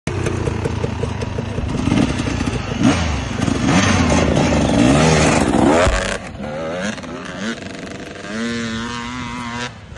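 Off-road motorcycle engine revving, its pitch rising and falling repeatedly. After about six seconds it drops quieter and settles into a steadier, held note.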